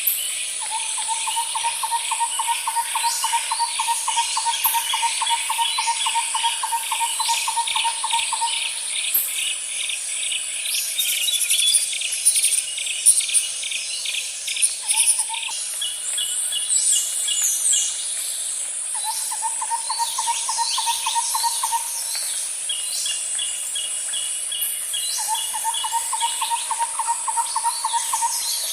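Outdoor nature ambience: birds chirping and calling over a steady high-pitched insect drone, with fast repeated chirp series. A lower, rapidly pulsed trill starts and stops several times, the longest lasting about eight seconds.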